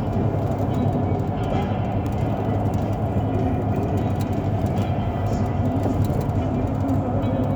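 Steady low rumble of a moving vehicle heard from inside it: engine and road noise running evenly.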